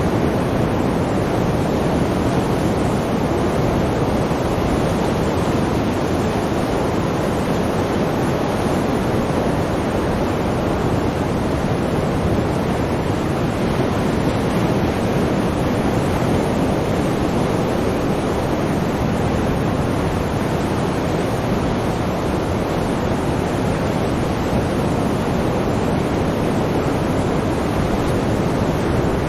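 Sea surf: a steady, even rushing of waves without distinct separate breaks.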